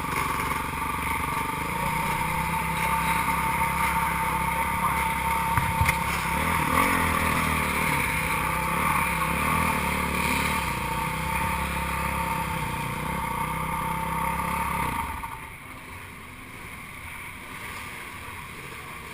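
Motocross dirt bike engines racing, their pitch shifting up and down as riders work the throttle. About fifteen seconds in the engine sound drops away sharply and stays much quieter.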